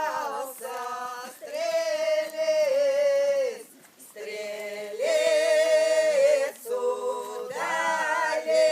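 A choir singing in long held phrases with vibrato, broken by short pauses between lines.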